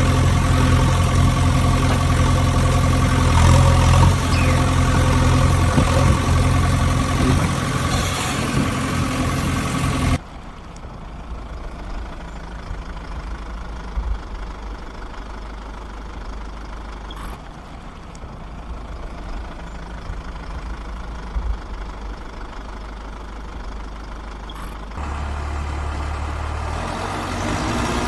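Steady idling engine sound with a low, even hum. About ten seconds in it cuts abruptly to a quieter, thinner running sound, then shifts again near the end.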